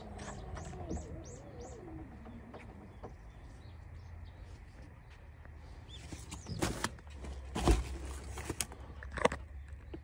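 Small bird calling outdoors: a quick run of high chirps in the first two seconds, over a lower wavering gliding call. Later come a few sharp knocks and thumps, the loudest about three-quarters of the way through.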